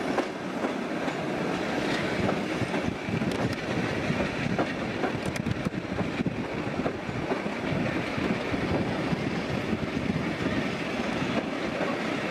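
Passenger train running along the track, heard from aboard: the steady noise of the wheels on the rails, with a few scattered clicks.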